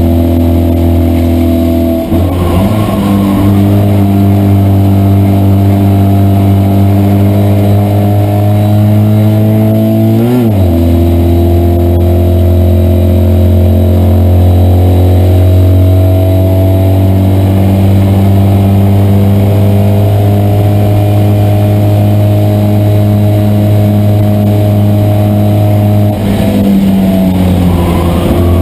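Citroën 2CV race car's air-cooled flat-twin engine running hard, heard from inside the car. The engine note briefly breaks and shifts pitch three times, about two, ten and twenty-six seconds in.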